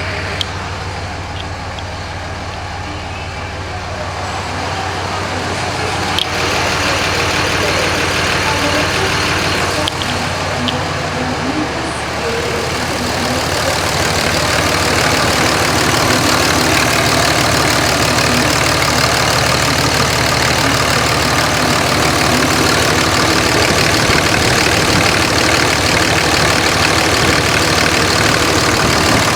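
Cummins 5.9 litre inline-six turbo diesel engine running. It grows louder about five seconds in and again around twelve seconds, then runs steadily with a dense diesel clatter.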